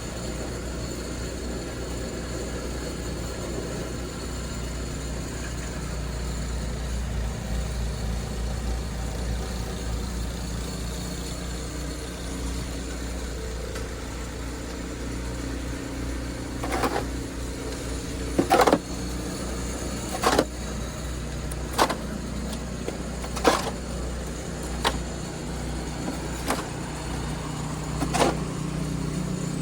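A steady low mechanical hum, like an engine idling. About halfway through, a snow shovel starts working the snow, scraping and striking in short strokes roughly every one and a half seconds.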